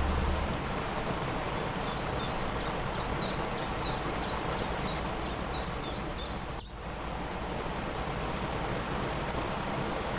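Waterfall rushing steadily, with a small bird singing a run of about a dozen short, high, falling notes, roughly three a second, through the middle; the rush dips briefly just as the song stops.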